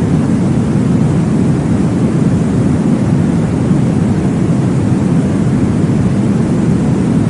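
Steady white-noise sleep sound, a deep, even whoosh weighted toward the low end with no rhythm or change.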